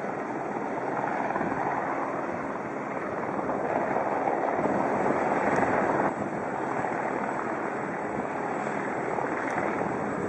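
Steady noise of an aircraft in flight, without a clear pitch, which changes abruptly about six seconds in.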